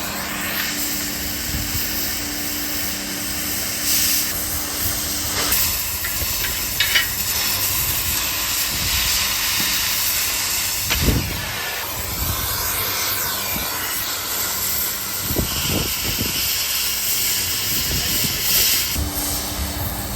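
Loud, steady hiss of metalworking-shop equipment, with a machine hum in the first few seconds and again near the end, and a few scattered metal knocks.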